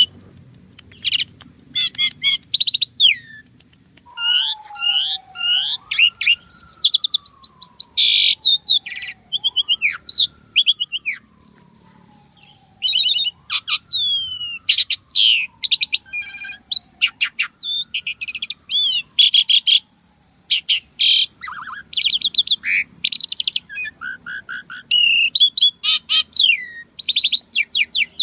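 Asian pied starling (jalak suren) singing vigorously: a fast, varied run of loud whistles, chatters and clicking notes with short gaps, rich in mimicked phrases. Behind it, from about four seconds in until about two-thirds through, a faint whistle repeatedly glides up and slowly falls, about every four seconds.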